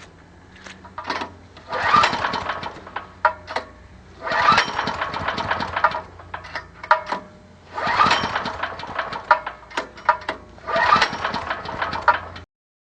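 Small woodgas-fuelled generator engine being pull-started: four bursts of cranking and sputtering, each lasting a second or two, without the engine catching. It is hard to start, which the owner puts down to air leaks around the cylinder head on the inlet and exhaust side.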